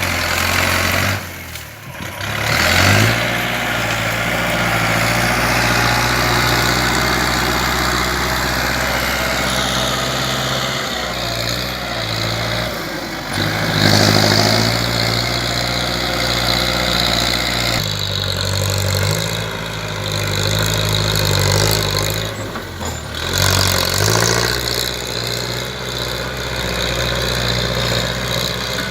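Kubota L4708 tractor's diesel engine running and working, its engine note rising and dropping back several times as the load changes.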